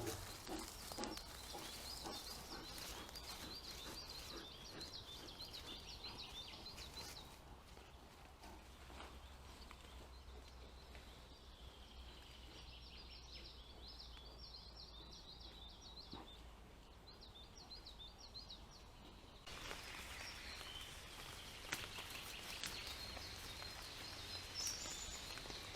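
Faint forest birdsong: a small bird repeating quick, high chirping phrases in two spells, over a low steady hum and a few soft clicks. The background changes abruptly about two-thirds of the way through.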